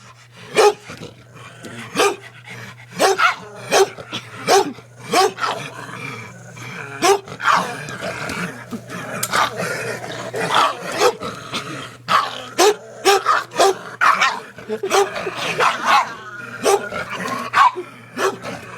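Pug barking excitedly over and over, short sharp barks about once a second, with growling between them.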